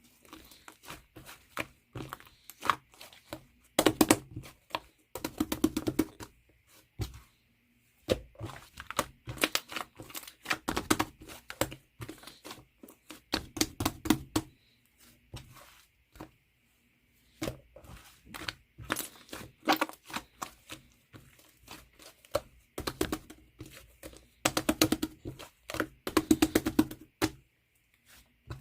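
Slime being squeezed, stretched and pressed by hand, making bunches of sticky crackling clicks and tearing sounds, with short pauses between handfuls.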